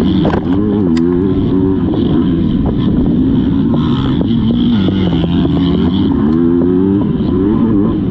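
Motocross dirt bike engine being ridden hard, its pitch rising and falling again and again as the throttle is opened and shut.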